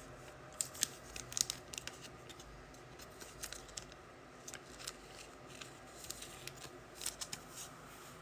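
Trading cards and their pack wrappers being handled: faint rustling with scattered sharp clicks and crinkles, busiest in the first two seconds and again near the end.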